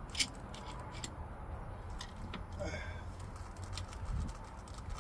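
A few scattered sharp clicks and taps of hand tools and metal fittings, heard while the brake booster's mounting nuts are being worked on, over a low steady hum. A brief vocal sound comes just before the middle.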